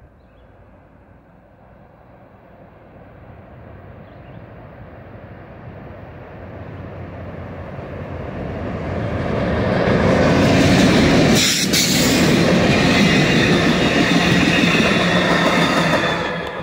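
A CSX diesel locomotive leading a track geometry train approaches, its sound building steadily until it passes close by about ten seconds in. The train's wheels then roll loudly past on the rails, and the sound drops off sharply near the end as the last car goes by.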